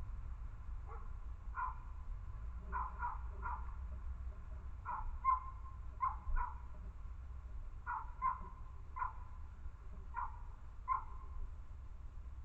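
An animal's short, sharp calls repeated irregularly, roughly one a second and sometimes in quick pairs, over a steady low rumble.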